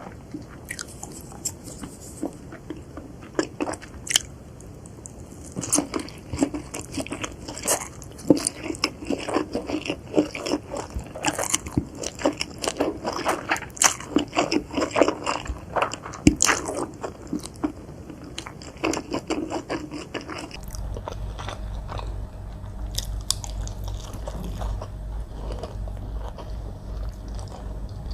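Close-up eating sounds of noodles with chicken: biting and chewing with many crisp, crunchy crackles. About 20 seconds in the crunching thins out and a steady low hum comes in underneath the quieter chewing.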